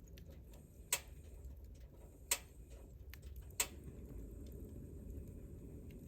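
Wood campfire burning with a steady low rush and three sharp crackling pops, roughly a second and a half apart.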